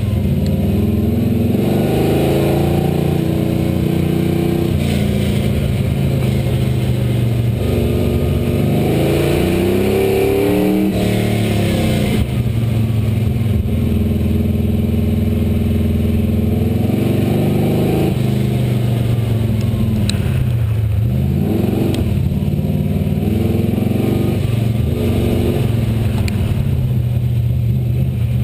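1966 Chevelle's V8 through Flowmaster mufflers, revving up and falling back over and over as the car is driven hard through an autocross course. The revs drop sharply and climb again at a few points, and briefly hold at steadier pitches between.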